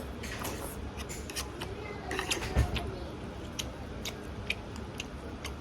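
Close-up mouth sounds of someone chewing spaghetti: a run of sharp wet clicks and smacks, with one low thump about halfway through.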